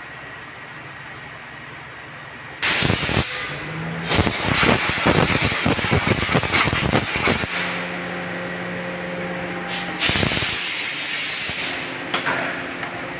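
Loud hissing blasts of pressurised gas: a short one about two and a half seconds in, a long fluttering one, and a third near the ten-second mark. A steady machine hum sounds between the second and third blasts.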